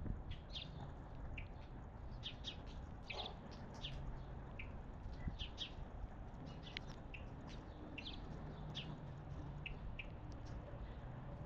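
Wild songbirds chirping: many short, high chirps scattered irregularly throughout, over a steady low background hum.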